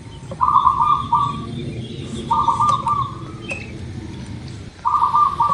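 Zebra dove (perkutut) cooing: three short, trilled coos about two seconds apart.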